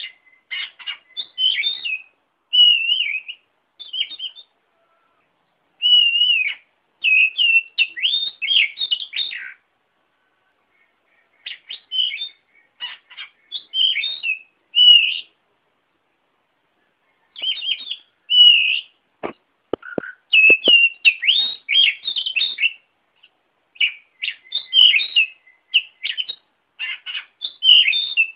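Songbird singing from a bird-training (masteran) recording: bouts of quick, varied whistled and chirping phrases separated by short pauses. A few short clicks sound near the middle.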